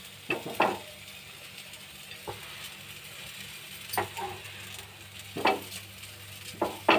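Filled puff-pastry patty frying on a hot tawa: a steady sizzle, broken by about seven short knocks and scrapes as the patty is pressed and moved on the pan.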